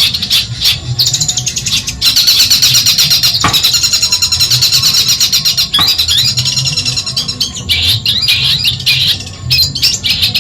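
Long-tailed shrike (cendet) singing a fast, continuous song of rapidly repeated high notes, louder from about two seconds in.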